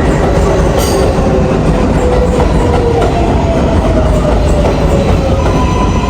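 R142A subway train running on the rails: steady wheel and track noise with some clatter, over a motor whine that slides slowly down in pitch. A new steady tone sets in near the end.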